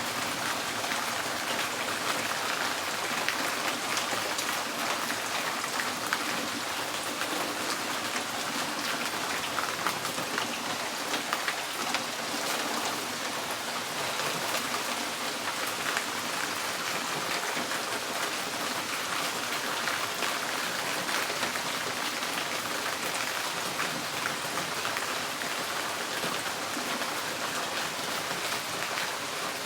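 Steady rain drumming on a tin porch roof, a dense hiss of many small drop ticks.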